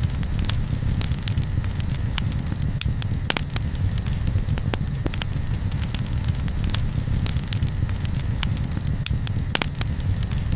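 Campfire crackling, with irregular sharp pops and snaps over a steady low rumble. A short high chirp repeats every second or so.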